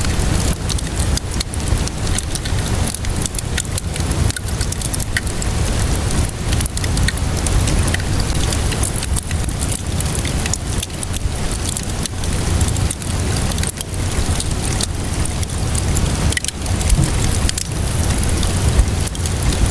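Wood fire crackling with frequent sharp pops, layered over steady rainfall with a low rumble underneath.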